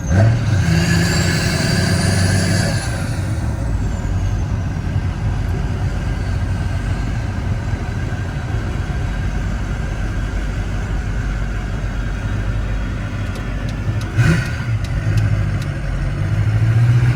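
6.0-litre diesel truck with a large aftermarket turbo accelerating, the turbo whistle rising over the first three seconds and then sliding down as the throttle comes off. The truck then cruises under steady engine and road noise, with a sharp knock about 14 seconds in, before the engine pulls harder again near the end.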